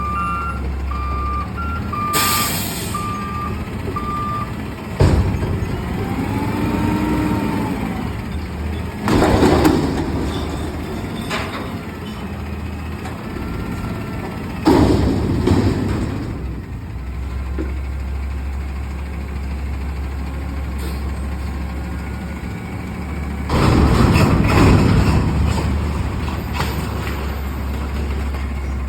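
Front-load garbage truck at work: its reversing alarm beeps steadily for the first few seconds over the running engine, with a short hiss. Then come four loud, noisy surges of mechanical sound a few seconds apart, and a whine that rises and falls once near the second.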